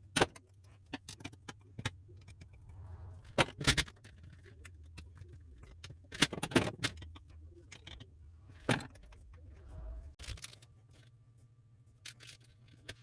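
Metal tools and parts being handled: irregular sharp metallic clinks and knocks, a few of them loud, over a low steady hum.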